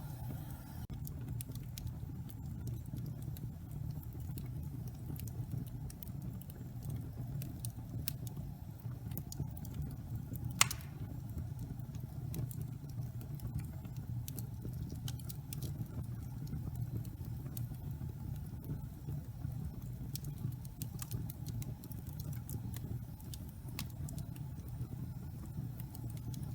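Wood logs burning in a fireplace: a steady low rumble with scattered small crackles and one loud pop about ten seconds in.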